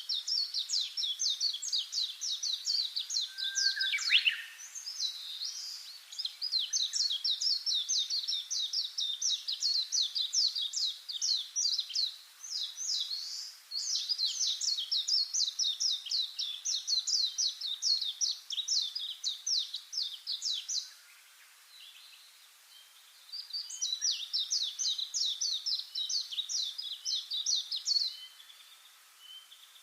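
Bird song: long runs of rapid, high chirps repeated many times a second. There is a falling whistle about four seconds in and a brief pause past the middle.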